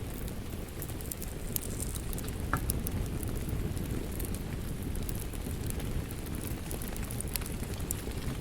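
Wood fire crackling, with scattered sharp pops over a steady low rumble of burning.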